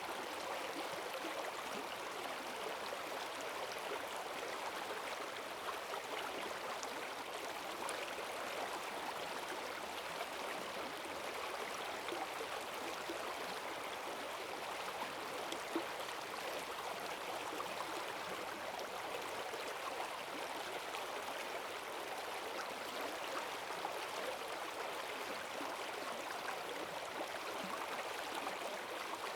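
Forest stream swollen with rainwater rushing and splashing over its bed, a steady strong current with small gurgles and splashes throughout.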